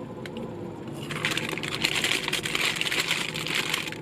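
Small white paper bag crinkling and rustling as it is handled and opened. Scattered crackles at first, then a denser crackling from about a second in until near the end.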